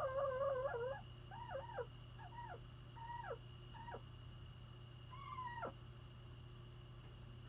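Chickens calling in their coop, stirred by the keeper's approach: a wavering trill that stops about a second in, then a string of about six short calls, each rising briefly and then sliding steeply down in pitch.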